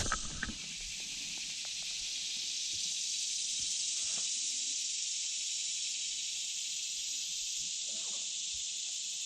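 Steady high-pitched hiss of insects droning, with a couple of faint knocks about four and eight seconds in.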